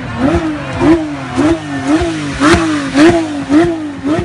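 Performance car engine revved repeatedly on the throttle, its pitch climbing and dropping about twice a second, with a sharp crack from the exhaust as each rev falls.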